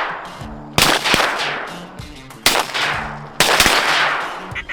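A volley of shotgun shots at flying teal: three loud blasts and a couple of quieter ones, spread over about three seconds, each trailing off in a long echo.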